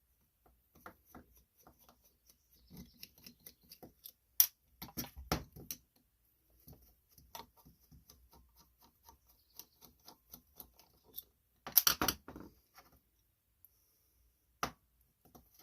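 Small irregular metal clicks and taps as the screws of a Kohler Command Pro 20 carburetor's float bowl are backed out with a screwdriver and the bowl is worked free. A few sharper knocks come around four and five seconds in, and a short cluster about twelve seconds in.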